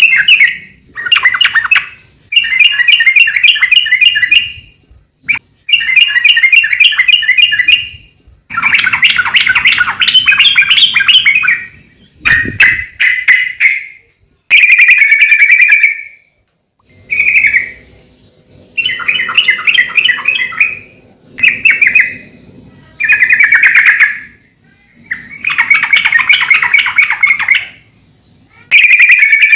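Yellow-vented bulbul (trucukan) singing in full voice: a string of bubbly, chattering phrases of one to three seconds each, broken by short pauses. This is the 'gacor' song used as a master recording to train captive bulbuls or provoke them into singing.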